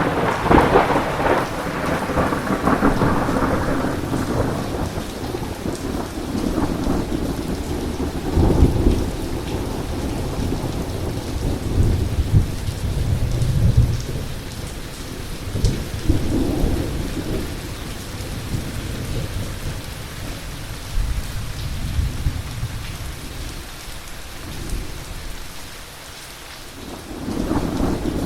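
Heavy rain falling steadily through a thunderstorm. A sudden clap of thunder right at the start rolls off over several seconds, low rumbles of thunder follow through the middle, and another roll builds near the end.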